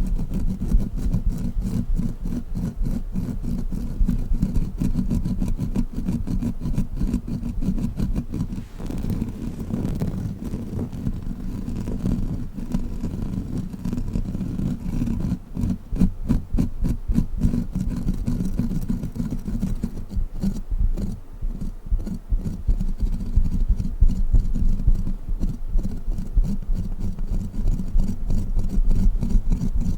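A sticky crawler toy handled and pressed close to the microphone, making a dense run of rapid sticky clicks over a deep rumble.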